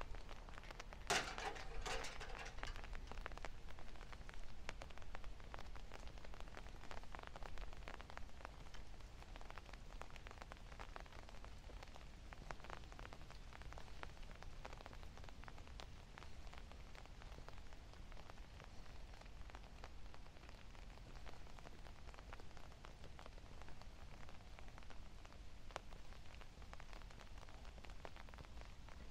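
Light rain pattering as many small, irregular ticks, with a sharper knock and rustle about a second in.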